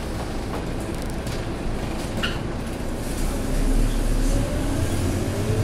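Scania K230UB bus's diesel engine running under low load during a slow maneuver, its rumble getting louder and rising in pitch a little past halfway as it is given more throttle.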